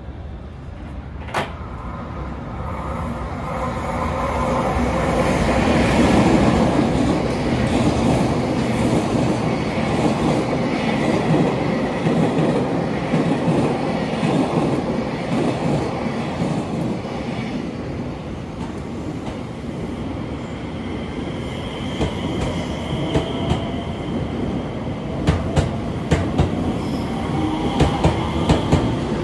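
A freight train running through on the adjacent track: a steady rumble of wheels that builds over the first several seconds. About two-thirds of the way in, a JR West 227 series electric train pulls away, its motors giving a rising whine and its wheels clicking over rail joints near the end as it passes.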